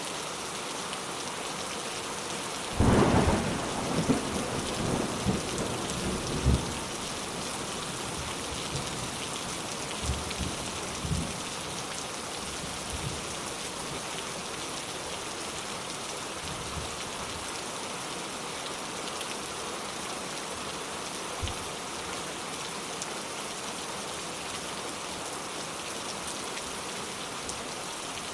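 Steady rain falling, with a roll of thunder that breaks in about three seconds in and rumbles off in a few low pulses over the next several seconds.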